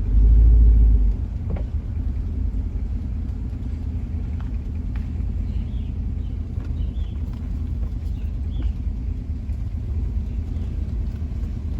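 Two-door Chevy Tahoe's engine running with a steady low rumble, with a brief much louder deep rush in the first second.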